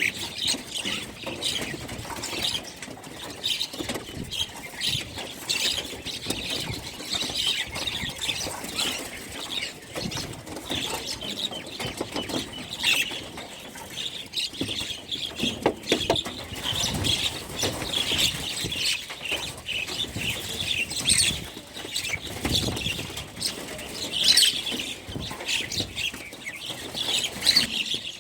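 Many small birds chirping over one another without a break, with short wing flutters and rustles mixed in.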